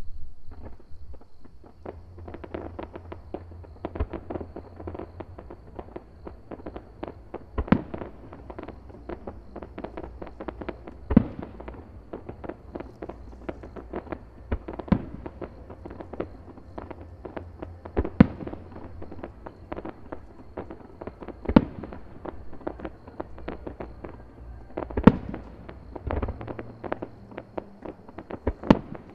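Fireworks display: aerial shells bursting with a dense run of pops and crackles, and a loud burst about every three to four seconds from the middle on.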